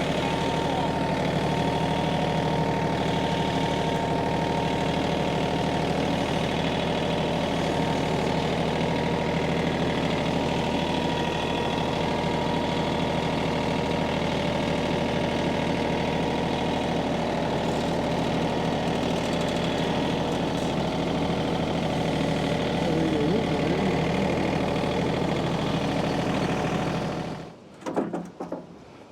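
Minneapolis Moline tractor engine idling steadily, then shut off about 27 seconds in, followed by a couple of knocks.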